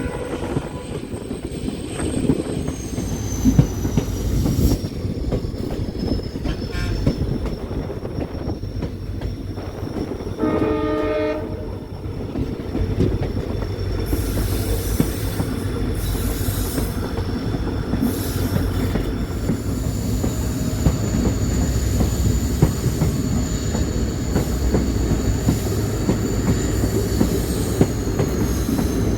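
Train running on the rails with a steady rumble. About ten seconds in, the locomotive's horn sounds briefly.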